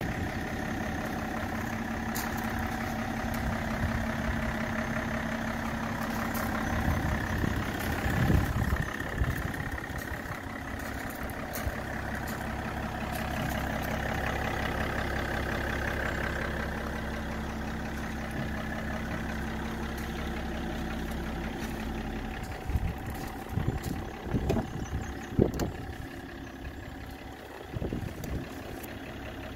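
BMW X5 engine idling steadily. Several handling thumps come near the end.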